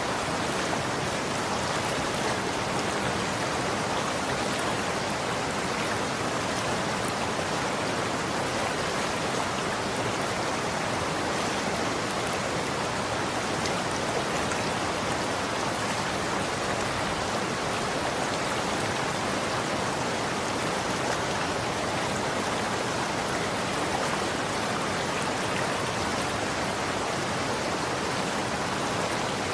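Running water flowing steadily, a constant even rush with faint scattered splashes and drips.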